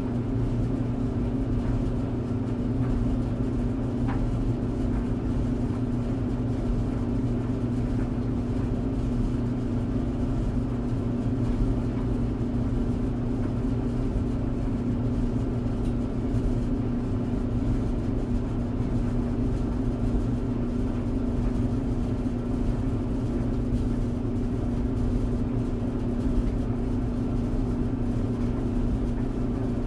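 Clothes dryer running: a steady low hum and rumble from the tumbling drum and its motor, unchanging in level.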